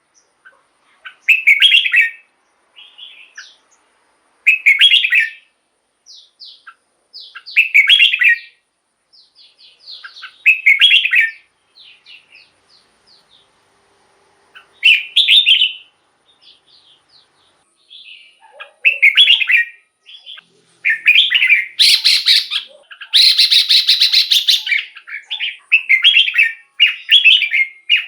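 Red-whiskered bulbul singing short, bright warbled phrases every few seconds. The phrases come closer together in the second half, with a louder, harsher stretch about two-thirds of the way through.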